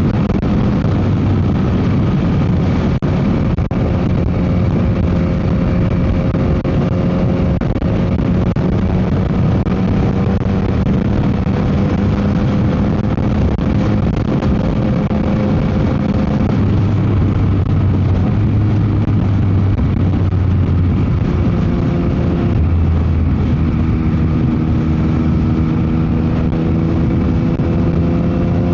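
Yamaha MT-09 SP's inline three-cylinder engine running under way through an aftermarket Dominator GP exhaust, its note drifting slowly up and down in pitch, with heavy wind noise on the microphone.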